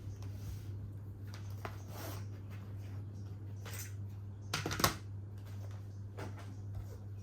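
Indoor room tone with a steady low hum, a few faint clicks and light knocks, and one louder short clatter about five seconds in.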